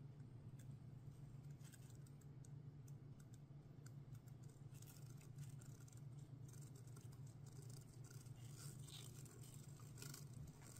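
Near silence: a steady low hum with faint, scattered small clicks and scrapes of hands handling objects.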